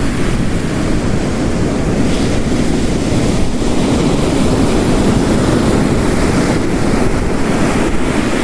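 Layered storm ambience: heavy rain hissing over ocean waves crashing on a rocky coast. It makes a loud, steady wash of noise, heaviest in the low end.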